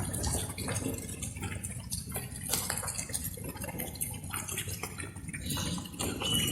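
Light rain: irregular water drops dripping and splashing over a steady low wash of rainfall. A brief thin high note sounds near the end.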